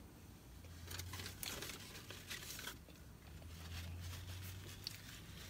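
Close-up chewing of a crispy fried-chicken biscuit: soft crunching and mouth sounds in irregular spurts, over a low steady hum.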